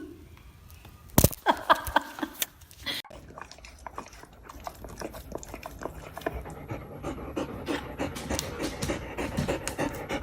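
A dog panting rapidly. A loud knock comes about a second in.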